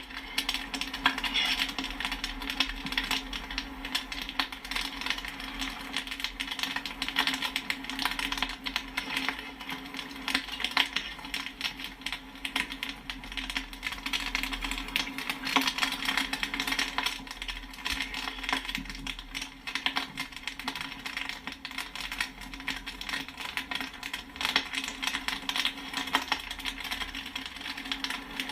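Popcorn kernels popping rapidly and irregularly, many sharp pops and pings in quick succession, over a steady low hum.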